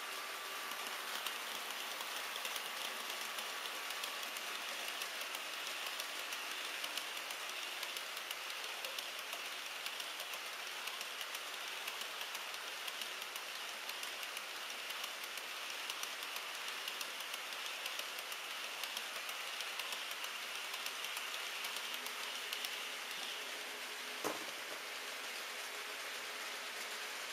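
HO-scale model freight train of Taki 1000 tank wagons running on track: a steady rattling hiss of many small wheel clicks over the rails, with a faint motor hum and one sharper click near the end.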